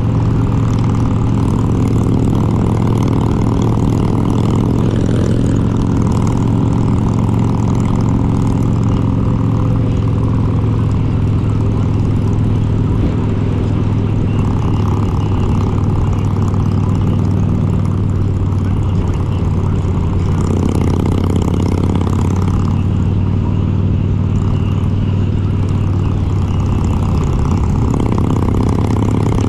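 Harley-Davidson Road King's air-cooled V-twin, built up to 95 cubic inches with an S&S kit and Super Stock heads, running steadily under way. Its note shifts a little with small changes of throttle.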